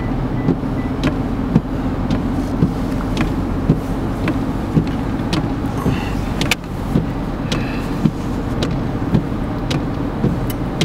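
Steady road and engine rumble inside a moving car's cabin, with scattered sharp ticks at irregular intervals.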